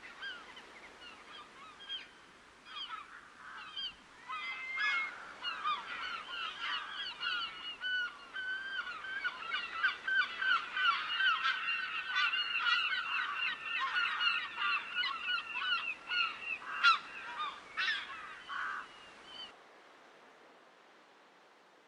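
A flock of birds calling: many short overlapping calls, sparse at first, then a dense chorus from about four seconds in that cuts off abruptly near the end.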